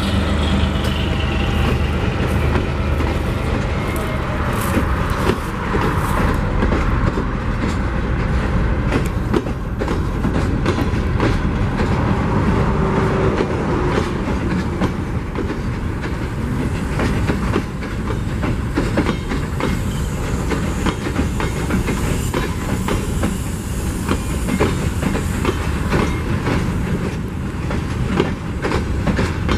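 Empty ore hopper cars of a freight train rolling past, their wheels clacking rapidly over the rail joints. In the first seconds the diesel of the GM-repowered ALCO RSD16 locomotive is heard as it draws away, then fades.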